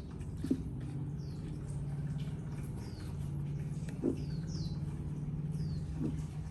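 Short, high chirps that slide downward, repeated about once a second, over a steady low hum, with a few brief low notes in between.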